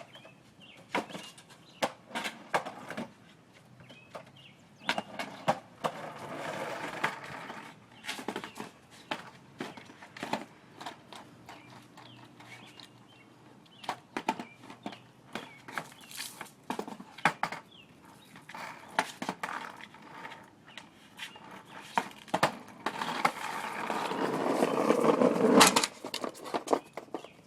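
Skateboard rolling on pavement, with many sharp clacks and knocks from the board and wheels. There are two longer rolling runs, the louder one near the end, which stops abruptly.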